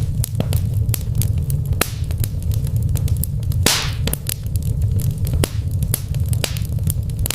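Fire crackling in a fireplace: irregular sharp pops and snaps over a steady low rumble, with a longer hissing flare a little under four seconds in.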